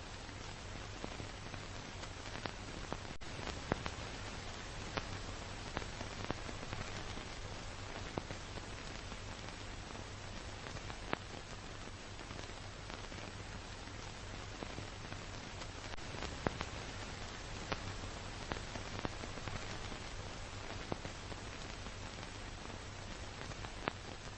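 Steady noise of a car being driven: an even hiss with a low hum beneath it and scattered sharp clicks.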